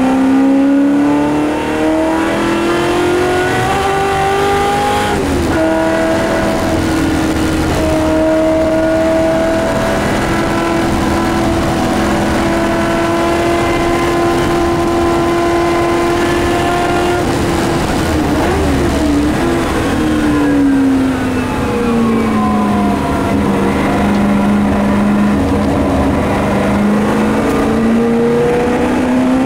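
Shelby Mustang GT350R's V8 race engine at full racing pace, heard inside the cabin. The revs climb and drop at an upshift about five seconds in, hold nearly steady for about twelve seconds, then fall away with a brief wavering around eighteen seconds in, stay low for several seconds and climb again near the end.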